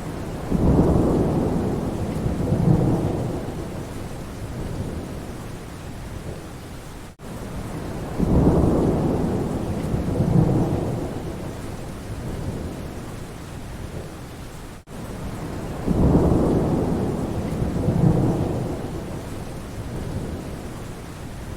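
Steady rain with thunder: a low rumble of thunder rolling in two swells, repeating the same way about every eight seconds, three times, over constant rain. It is a short loop, with a brief gap at each join.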